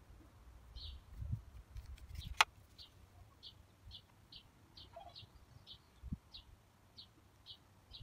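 A small bird chirping over and over, one short high note about twice a second. A single sharp click about two and a half seconds in, with a low wind rumble on the microphone.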